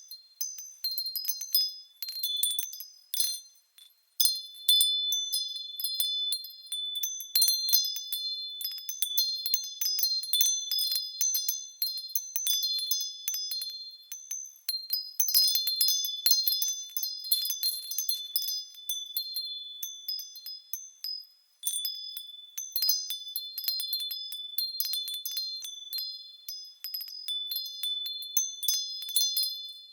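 Japanese furin wind chimes ringing in the breeze: clear, high tinkling tones struck again and again at irregular intervals, each note ringing on. There are short lulls a few seconds in and again around two-thirds of the way through.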